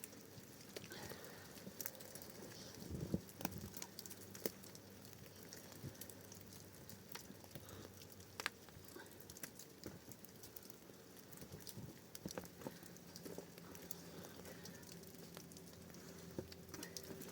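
Small wood fire crackling faintly, with scattered sharp pops and ticks.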